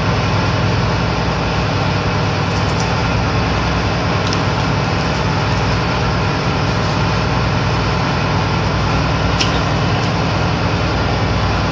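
Steady low drone of a ship's running machinery, holding at an even level throughout.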